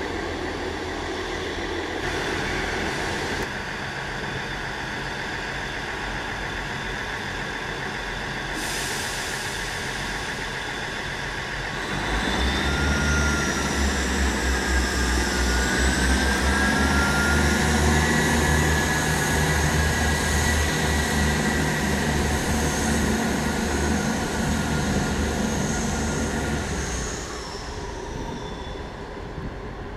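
Diesel train running through the station. About twelve seconds in it gets louder, with a deep engine hum and a whine that bends in pitch, and it falls away again near the end.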